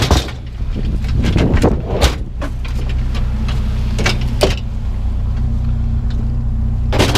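Truck engine idling steadily under several sharp knocks and clanks as metal bed rails are loaded in.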